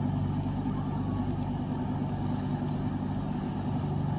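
Steady low engine drone of a running vehicle, even in pitch and level throughout.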